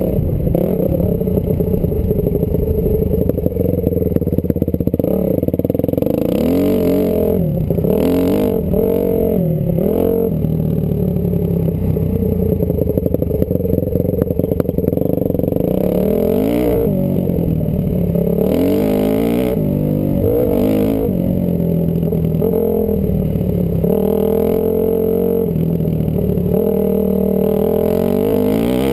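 Honda CRF250R dirt bike's single-cylinder four-stroke engine under hard riding, revving up and dropping back over and over as the throttle is worked through the gears, with brief louder noisy bursts several times along the way.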